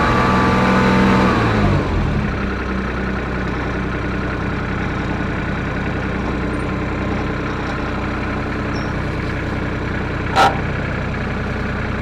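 Kubota RTV utility vehicle engine revving up, then dropping back within the first two seconds and running steadily, as the machine stalls out for lack of traction on a muddy hillside. A single sharp click about ten and a half seconds in.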